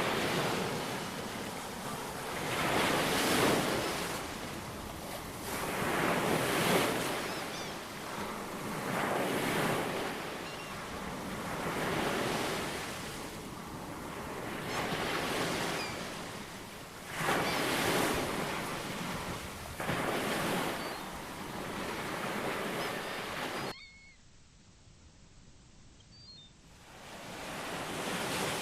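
Ocean waves surging and washing in, swelling about every two to three seconds, with a few faint high bird chirps. About 24 seconds in the surf cuts off abruptly to a dull quiet for about three seconds, then swells back.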